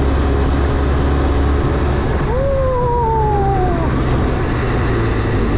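Benelli TRK 502 parallel-twin motorcycle running on the road, with a steady low engine and wind rumble. About two seconds in, a single drawn-out tone slides downward in pitch for about a second and a half.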